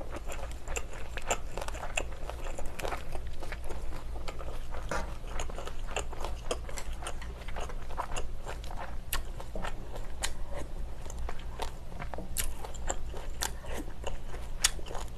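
Close-miked chewing of a mouthful of food: a steady run of short wet mouth clicks and crunches, over a faint low hum.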